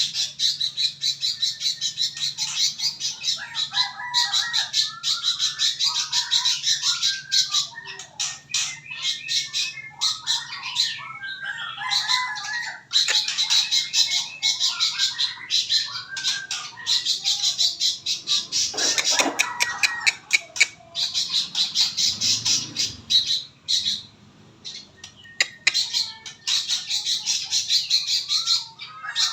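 White-rumped shama singing a long, varied song: rapid high chattering runs mixed with lower whistled phrases, pausing briefly about two-thirds of the way through.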